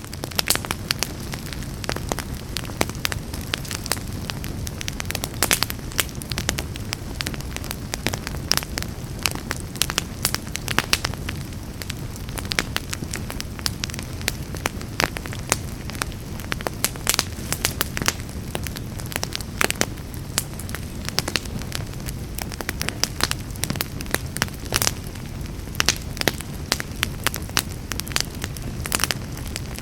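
Wood fire burning in a fireplace: a steady low sound of flames with frequent, irregular sharp crackles and pops of burning wood.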